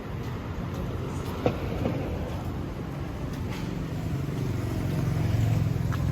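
Street traffic: a steady low engine rumble that swells as a vehicle passes close near the end, with a sharp click about a second and a half in.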